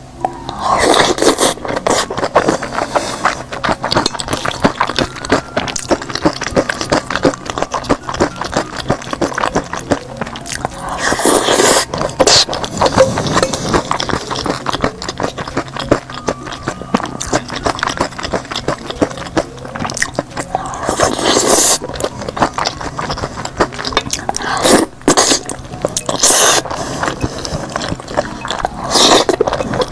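Close-miked eating sounds: chewing with dense, irregular wet mouth clicks, in several louder spells.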